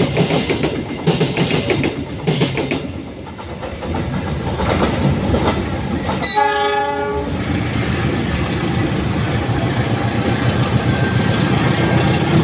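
Coal train hauled by a CC 205 diesel locomotive passing, its wheels clattering over rail joints about once a second. About six seconds in, the locomotive's horn sounds one short chord-like blast, and a steady rumble of the wagons follows.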